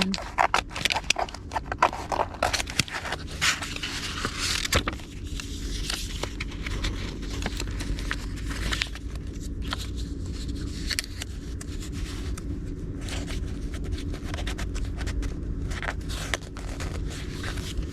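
Index cards and stationery being handled: rustling, tapping and scraping, busiest in the first five seconds, then fainter scattered scrapes over a steady low hum.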